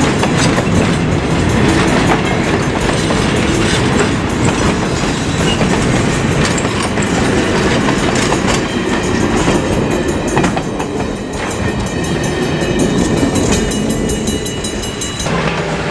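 Freight train rolling past close by, its wheels clicking steadily over the rail joints over a continuous rumble.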